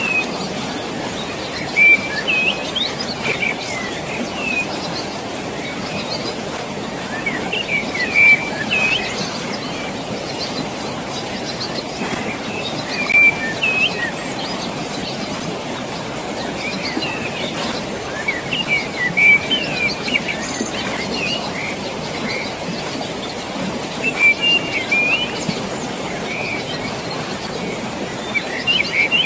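Steady rushing water of a stream or falls far below, with small birds chirping in short bursts every few seconds.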